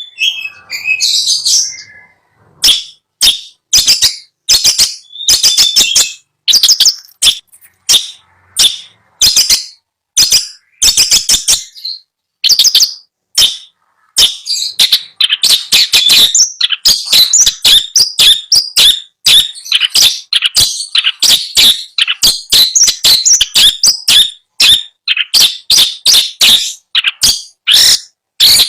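Long-tailed shrike (cendet) singing close up: a long run of short, sharp notes and chatters. The notes come in separate spaced bursts at first, then pack into rapid, almost continuous song from about halfway.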